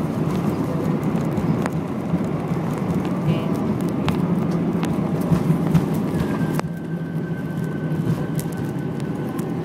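Airbus A320 cabin noise during the landing roll-out: a loud, steady rumble from the engines and the runway, with light rattles. The upper part of the rumble drops sharply about six and a half seconds in, leaving a steady lower drone and a faint thin whine.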